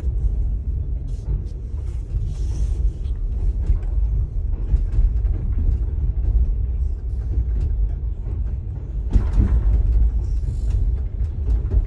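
Running rumble of a moving passenger train heard from inside a sleeper compartment, with scattered creaks and clicks from the carriage.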